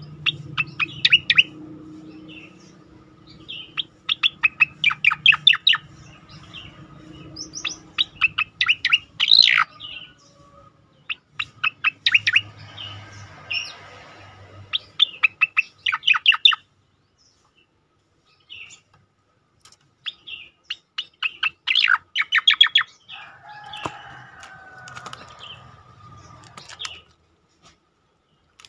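Horsfield's bush lark (cicak koreng) singing its rapid 'tembakan' bursts: quick runs of sharp high chirps in repeated phrases with short pauses, and a silence of a few seconds past the middle.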